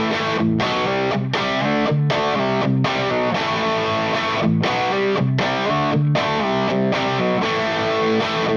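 Electric guitar, a 1981 Ibanez AS100 with humbuckers, played through the Valco Bloodbuzz pedal's drive into an ENGL Powerball II amp: overdriven chords strummed in a steady rhythm, with short breaks between chord changes.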